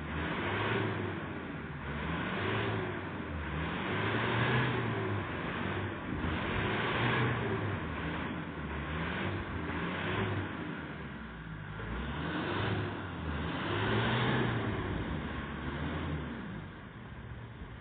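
Vehicle engine revving up and down over and over, its pitch rising and falling every second or two, as it works along a rough off-road track; it eases off slightly near the end.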